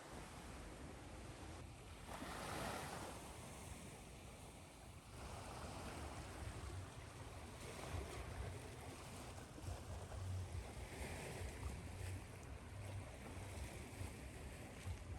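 Ocean surf washing in, one wave surging about two seconds in, over a steady hiss of white noise.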